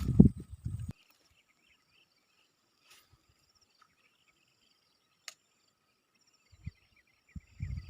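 Faint insects chirping in vegetation, in rapid trills. A burst of low knocking and rumbling at the start cuts off suddenly after about a second. A single sharp click comes about five seconds in, and more low knocks come near the end.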